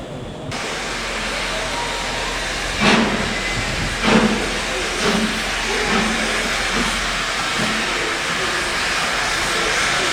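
Steam locomotive getting under way: cylinder drain cocks hiss steadily, and about three seconds in six exhaust chuffs begin, coming slightly quicker each time as it gathers speed.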